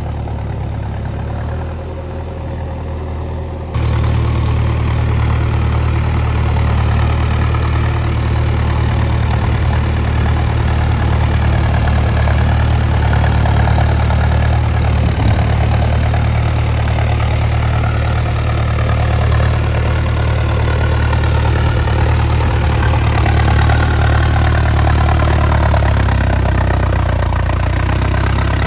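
Mahindra Arjun Novo 605 DI tractor's diesel engine running steadily, with a strong low drone. It jumps suddenly louder about four seconds in and holds there.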